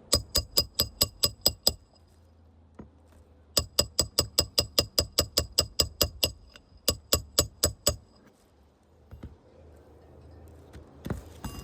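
Hammer striking metal in rapid, evenly spaced taps, about five a second, each with a sharp ring. The taps come in three runs with short pauses between, as a roofer works a damaged asphalt shingle loose.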